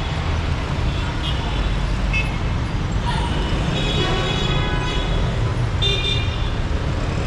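Heavy street traffic: a steady rumble of car, bus and motorbike engines, with horns honking on and off, a longer honk about four seconds in and another near six seconds.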